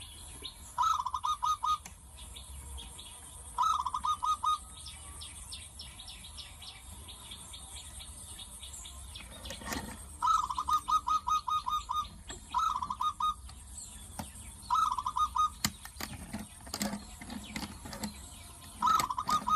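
A bird calling in short bursts of rapid repeated chirps, six times, over a steady hiss. A few light clicks and knocks come near the end.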